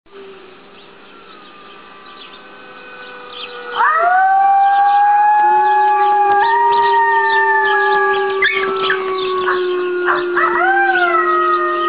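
Puppy howling: about four seconds in, a loud howl rises and is held for several seconds, and a second rising howl comes near the end, over a lower steady tone.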